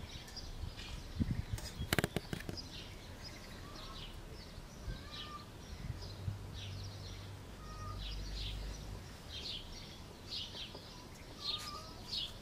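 Small birds chirping: short, high chirps repeated all through, with a few softer sliding notes between them. A quick cluster of clicks about two seconds in, and a faint low hum in the middle.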